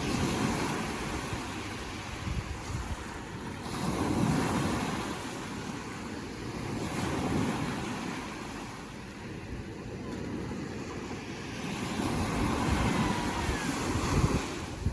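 Ocean surf: waves breaking and washing in, swelling and fading every three to five seconds, with some wind rumble on the microphone.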